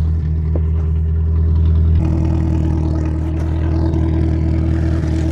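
Ford Pinto engine running with its exhaust blowing through a loose motorcycle muffler held to the tailpipe, not sealed, so the note is only a rough idea of how it would sound welded. The exhaust note changes about two seconds in.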